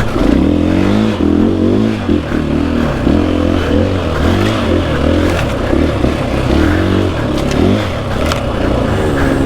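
Single-cylinder dirt bike engine under load, its pitch rising and falling again and again as the throttle is worked up a hill climb, with a few sharp ticks on top.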